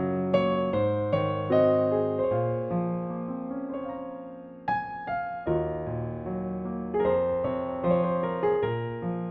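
Background music: gentle solo piano playing slow, sustained chords and melody notes that ring and fade.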